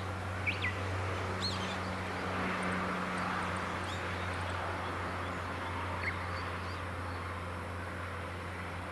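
Wild birds giving a few short, falling chirps, about half a second in, around a second and a half, and once near six seconds. Under them runs a steady low hum and a hiss that swells and fades in the middle.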